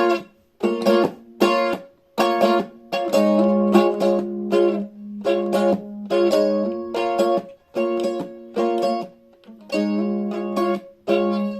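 Instrumental break of a song: chords strummed in a steady rhythm on a small plucked string instrument, with short pauses between strum groups.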